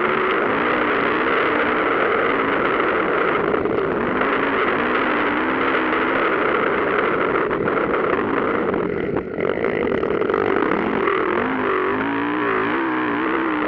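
Motocross bike engines racing, revving up and down continuously, with a brief dip about nine seconds in.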